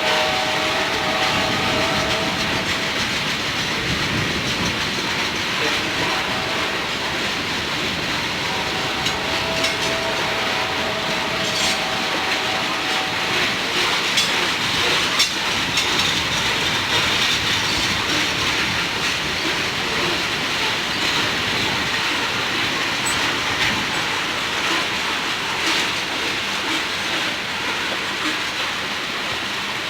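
Freight train rolling past: a steady rumble and rush of steel wheels on rail with scattered clicks over the joints. A pitched tone sounds at the start and again for a few seconds about a third of the way in.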